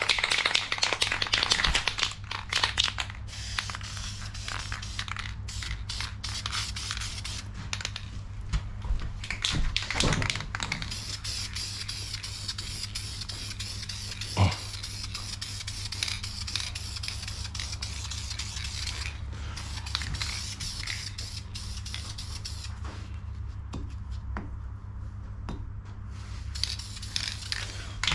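Aerosol can of VHT high-temperature engine enamel spraying in repeated bursts of hiss with short pauses, over a steady low hum. The hiss drops out for a few seconds near the end.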